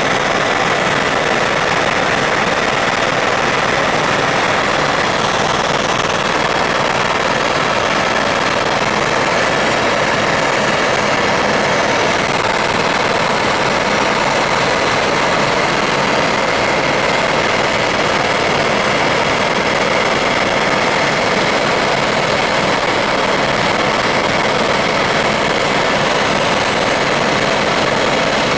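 Helicopter in flight, heard from inside the cabin: a loud, steady engine and rotor noise with a faint high whine running through it.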